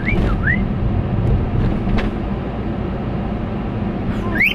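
Steady road and engine rumble inside a moving car's cabin, with a cockatiel giving short rising whistled chirps, two just at the start and one near the end.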